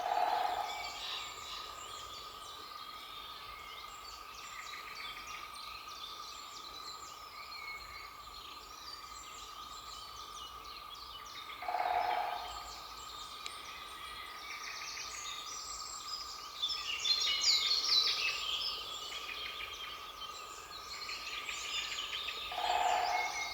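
Great spotted woodpecker drumming on wood: three short rolls of rapid knocks, each about a second long and roughly eleven seconds apart. Other songbirds sing throughout.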